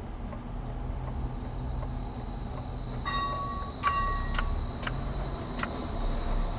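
Steady low engine and road rumble heard inside a police patrol car, with a short cluster of electronic beeps and ticks about three to five seconds in and a faint steady high whine.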